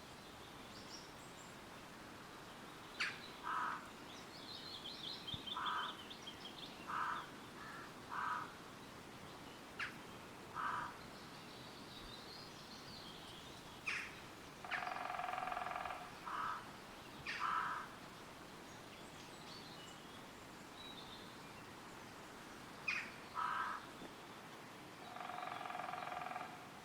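Woodland ambience: a steady rush of wind through trees, with birds calling throughout. Short repeated calls and a high songbird trill early on, and two longer, harsher calls, one about halfway through and one near the end.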